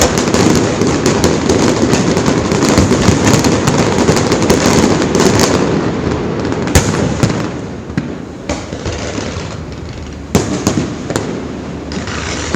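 Fireworks display: a dense barrage of crackling and booming shells for about the first half, thinning to a few separate sharp bangs with quieter crackle between them.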